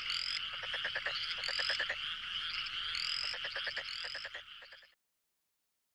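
Frogs calling in a chorus: rapid pulsed croaks overlapping with short rising chirps. It stops abruptly about five seconds in, followed by silence.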